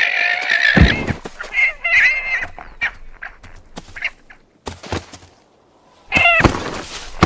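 A guanaco's high, wavering bleating cries in short bouts as a puma holds it by the throat, with thuds and scuffling from the struggle in between.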